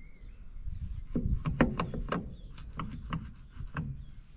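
A run of irregular sharp knocks and clicks, starting about a second in, from handling inside an abandoned excavator's cab.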